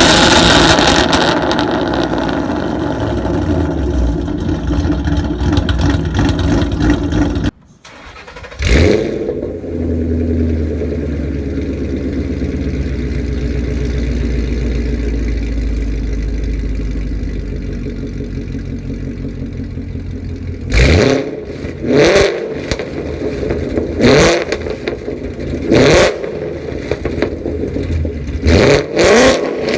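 A 2011–2014 Ford Mustang's engine and exhaust running, cutting out briefly, then starting up with a sharp flare that settles into a steady idle. Near the end come about six short throttle blips, one every second or two.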